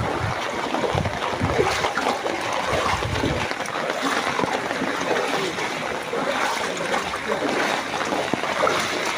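Heavy rain and floodwater: a steady splashing hiss of water, with low rumbles in the first few seconds.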